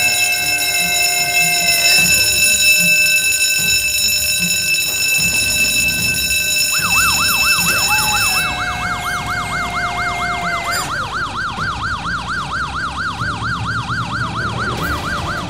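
Steady electronic fire-station alarm tone, then a fast warbling emergency siren, about four swings a second, that comes in about seven seconds in. The alarm tone stops soon after, and the siren keeps going.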